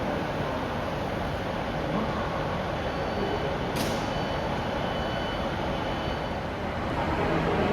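A train at the station platform, running with a steady rumble. A short hiss comes about four seconds in, and the sound grows louder near the end.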